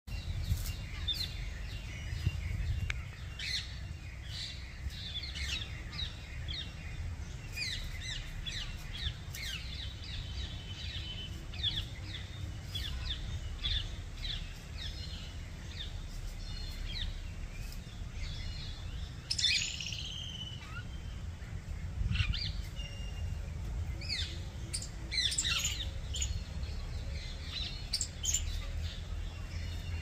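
Small birds chirping repeatedly in short, quick calls, with one louder, longer call about twenty seconds in, over a steady low rumble.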